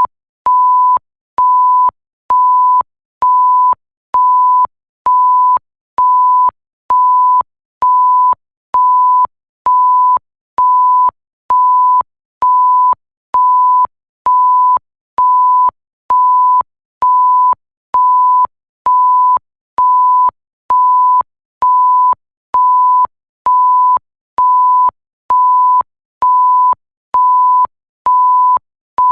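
Electronic bleep sound effect: a steady pure tone of about 1 kHz repeating as short, evenly spaced beeps, roughly one a second, each switching on and off with a small click.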